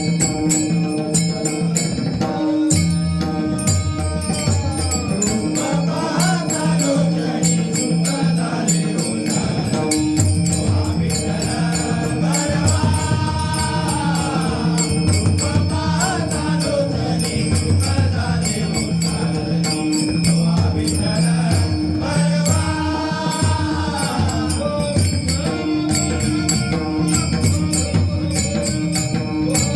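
Devotional abhang music: pakhawaj drumming and small hand cymbals keeping an even rhythm over a steady drone. A melody rises and falls in long arcs above them, with no sung words.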